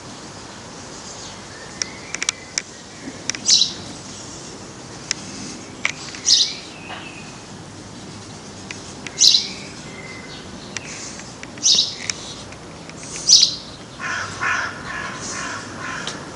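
Birds calling: short, sharp high calls repeating about every two to three seconds, five in all, over a steady background hiss.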